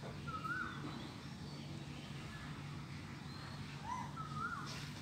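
Birds calling: a short swooping whistled call sounds about half a second in and twice more around four seconds in, with fainter high chirps from other birds and a steady low hum underneath.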